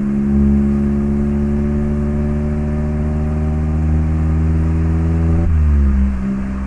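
Mazda ND Roadster's 1.5-litre four-cylinder engine running through an HKS LEGAMAX Sports aftermarket exhaust. The engine pulls under light acceleration with its pitch rising slowly. About five and a half seconds in, the pitch drops sharply, as at an upshift, and then holds steady.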